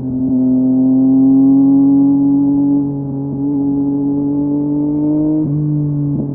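Yamaha MT-09's three-cylinder engine through a LeoVince LV Race exhaust, pulling steadily with its note slowly rising, then an abrupt change of note about five and a half seconds in.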